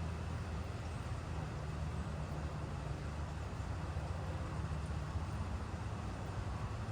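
Steady rainfall hiss with a constant low rumble underneath it.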